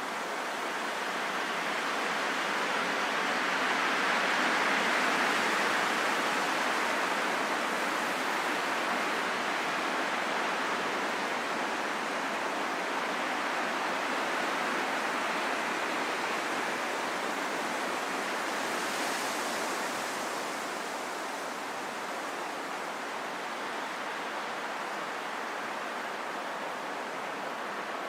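Wind blowing, a steady rushing hiss that swells about four to six seconds in and slowly eases, with a brief higher gust of hiss about two-thirds of the way through.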